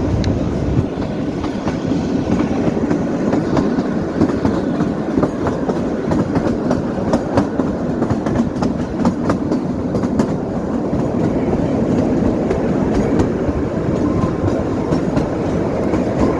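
Kalka–Shimla narrow-gauge toy train running, heard from on board: a steady rumble of the coaches with the irregular clickety-clack of wheels over the rail joints.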